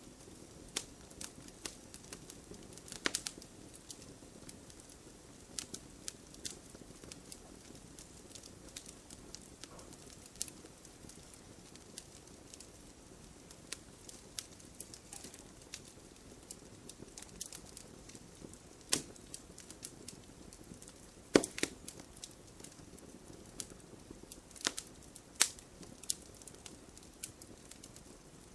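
Wood fire crackling and popping: irregular sharp snaps over a faint steady hiss, with a few louder pops scattered through.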